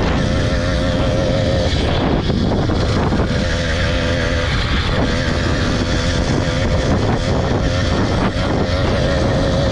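Small motorbike engine running at steady revs while riding, a high drone that wavers slightly, with wind noise on the microphone. The bike has just been re-geared with a different sprocket and is slow to build speed.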